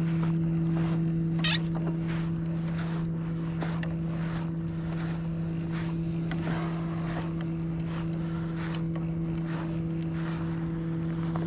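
Fishing reel being cranked to bring up a fish hooked deep, with a short rasp about twice a second over a steady low hum. A sharp click comes about a second and a half in.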